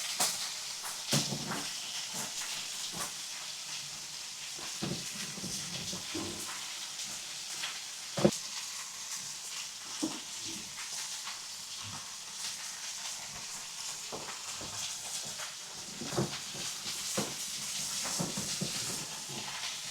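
Meat sizzling with a steady hiss on a hot marble slab over a wood fire, with scattered sharp clicks and knocks throughout. The loudest click comes about eight seconds in.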